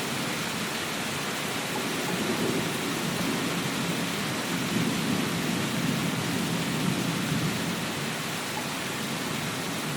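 Steady, dense rainfall with a low rumble underneath that swells and eases a couple of times.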